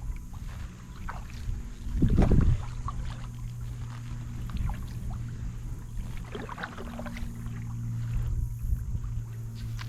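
Kayak paddling on a lake: the paddle blades dip and water drips and splashes in scattered bursts, with a louder low rumble about two seconds in.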